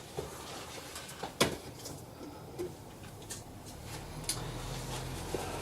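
Faint handling noises as a cloth bed sheet is laid over the car's bodywork: light rustling with a few small knocks, the sharpest about a second and a half in. A low hum comes in near the end.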